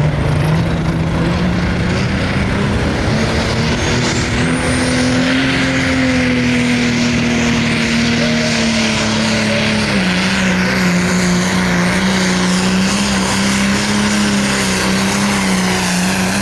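Light Pro Stock pulling tractor's turbocharged diesel engine running hard at high revs under load while pulling the sled. Its pitch climbs a little a few seconds in, then drops to a lower steady note about ten seconds in, with a strong hiss over the engine note.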